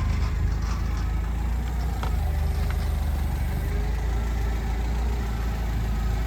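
Forklift engine idling steadily while the operator gets ready to lift a heavy crate.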